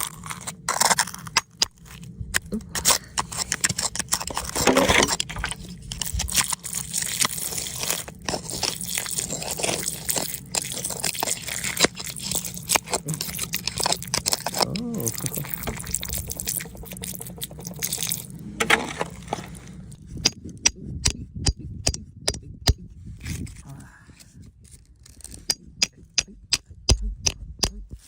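Hand tools working on rock: scraping and irregular clicking, then a quick series of sharp taps in the last third.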